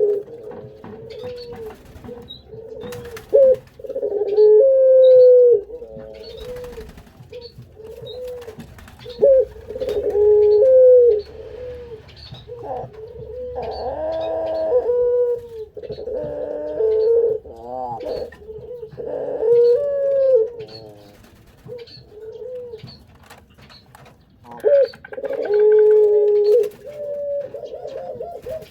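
Puter doves (domestic Barbary/ringneck doves) cooing over and over, one coo every second or two, with some calls overlapping.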